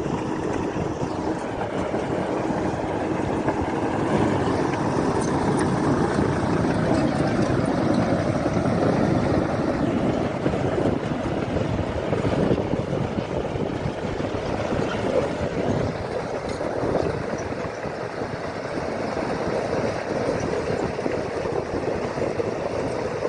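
A vehicle running, with a steady rough rumble of engine and road noise.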